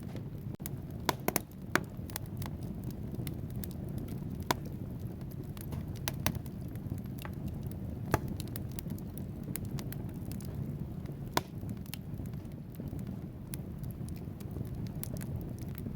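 Wood fire burning on logs in a fireplace: a steady low rumble of flame with frequent sharp crackles and pops. A cluster of loud pops comes just after the start, and single loud pops come about halfway and two-thirds of the way through.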